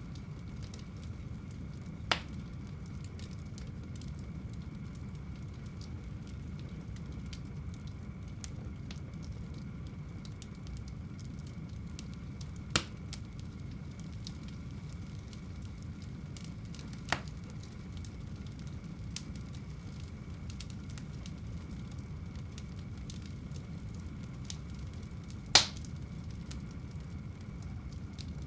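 Wood fire burning in a home fireplace: a steady low rumble with faint crackling, broken by four sharp pops, the loudest near the end.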